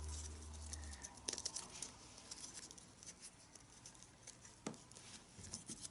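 Faint scratching, rubbing and light clicks of a leather tabla strap (badhi) being threaded and pulled through the drum's lacing, with a low hum in the first second.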